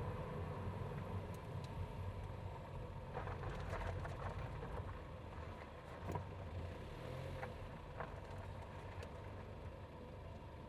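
BMW B48 turbocharged four-cylinder engine in a 120i running steadily at low revs, heard through a microphone in the engine bay. A few faint clicks come through about three to four seconds in and again around six seconds.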